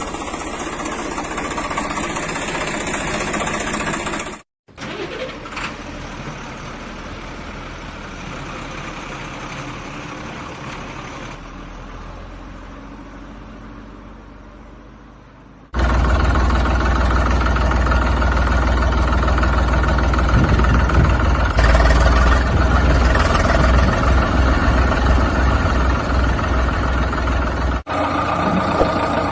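Heavy vehicle engines running, heard in several abruptly cut segments. A steady engine stops suddenly about four seconds in and is followed by a quieter engine that slowly fades. About halfway through, a much louder, deeper engine starts close by and runs steadily.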